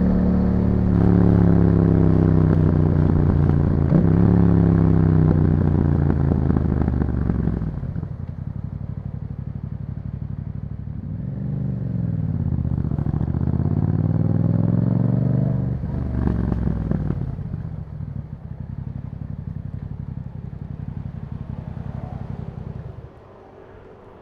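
2021 Yamaha MT-07's parallel-twin engine through an Akrapovic exhaust, pulling hard with its pitch climbing and dropping several times in the first eight seconds as it shifts up. It then eases off, the pitch dipping and rising again, gives a short rev about sixteen seconds in, and runs low and steady until it cuts off near the end.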